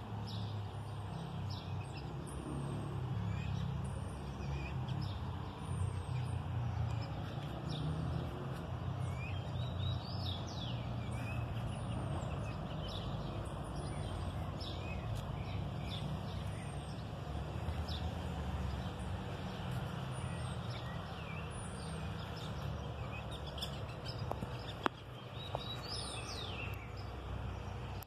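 Small birds chirping again and again, short high notes that fall in pitch every second or two, over a steady low rumble. A single sharp click comes near the end.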